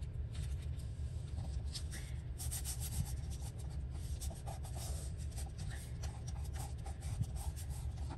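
Tissue-paper scraps being rubbed and pressed down by hand onto a glued board, giving a run of short papery rustles and scrapes, over a steady low hum.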